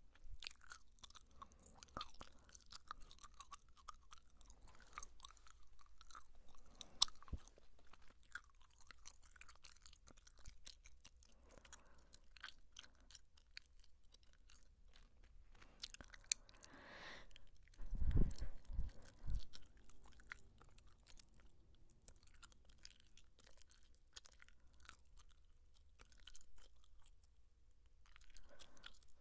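Close-miked gum chewing: many small wet smacks and clicks from the mouth. A few low thumps about two-thirds of the way through are the loudest sounds.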